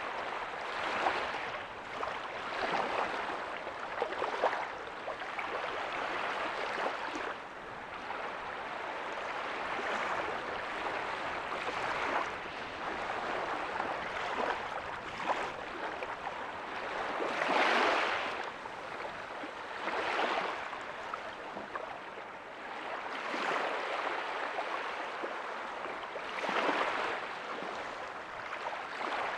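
Small ocean waves breaking softly on a beach: a continuous wash of surf that swells every two to three seconds as each wave breaks, with the biggest swell a little past the middle.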